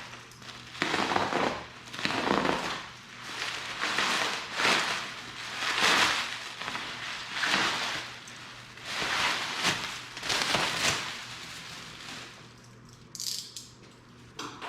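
A cardboard shipping box being opened by hand, its packaging rustling and crinkling in a run of rough strokes about once a second, tailing off near the end.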